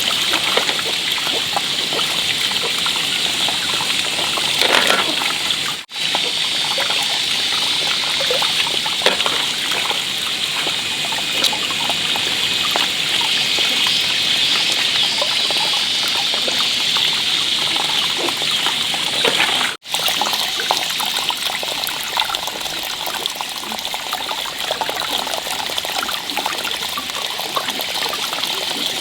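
Water running and trickling steadily, broken twice by a brief gap.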